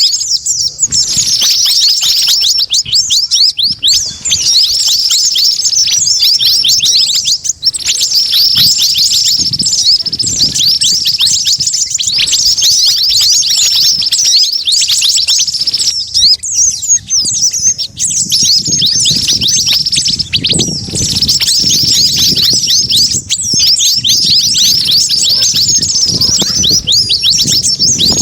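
Bird-lure recording of a busy flock of small songbirds, white-eyes and sunbirds among them: loud, dense, high-pitched chirping and twittering with rapid overlapping calls, pausing only for a moment now and then. It is a trapping call meant to draw wild birds in.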